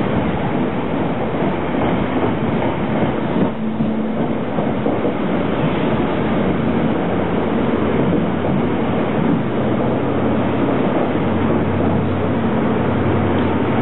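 Passenger train running loudly and steadily at the station platform, with a low engine or motor hum that grows stronger in the second half.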